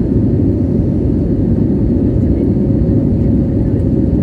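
Airbus A320 jet engines running, heard inside the passenger cabin as a steady, loud, low rumble with a faint steady hum above it.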